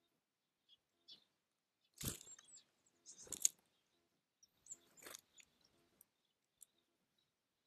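Small birds at a feeder: three short rustling, crunchy noises about two, three and five seconds in, the middle one loudest, with a few faint, short high call notes between them.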